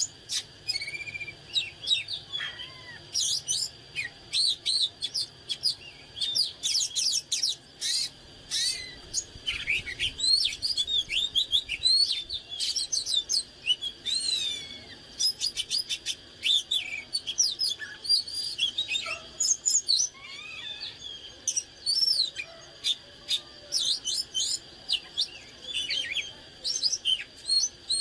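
Oriental magpie-robin singing: a rapid, varied stream of clear whistles, slurred notes and sharp chirps, broken by many short pauses.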